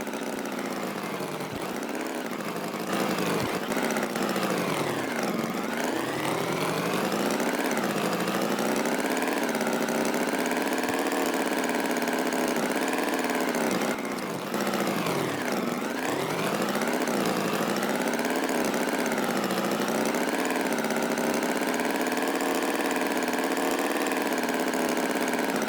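A vehicle engine running steadily, its pitch dropping and climbing back up twice, once about five seconds in and again past the middle.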